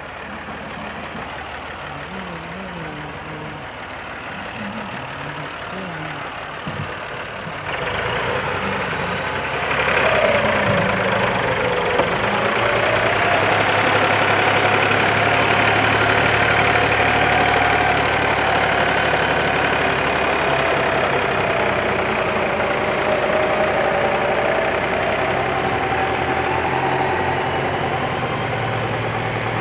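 Massey Ferguson 260 tractor's three-cylinder diesel engine running, working to haul a fully loaded trolley. It grows louder about eight seconds in and again about ten seconds in, then holds a steady note that dips and rises slightly.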